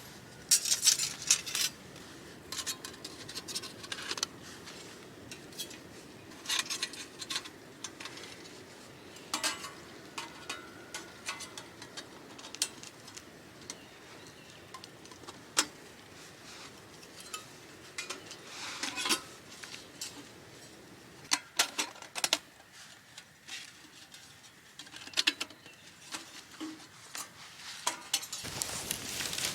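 Metal camp cookware being handled: a string of irregular sharp clinks and knocks, some ringing briefly.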